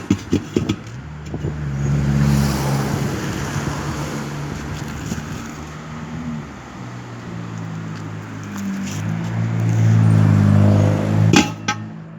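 An engine running, its pitch and loudness rising and falling, with a few sharp knocks at the start and again near the end.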